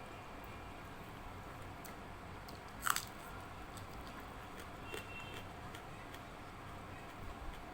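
Close-up eating sounds of a person chewing a meal of rice, dal and fried vegetables and fish. There is one loud, sharp sound about three seconds in, smaller ones near five seconds and near the end, and faint clicks, over a low steady hum.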